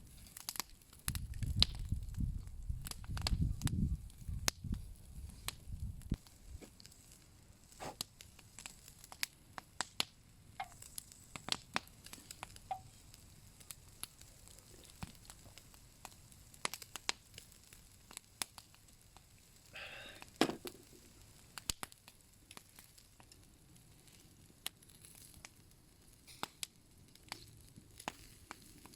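Wood bonfire crackling with scattered sharp pops while meat grills over it, with a low rumble for the first few seconds.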